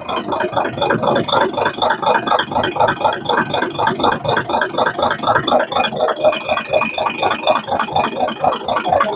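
Isuzu 6WF1 diesel engine running steadily on its manual injection pump, with an even, rhythmic clatter.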